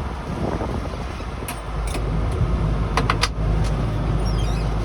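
Motor vehicle engine running with a steady low rumble that grows louder about a second and a half in, with a few sharp clicks around the middle.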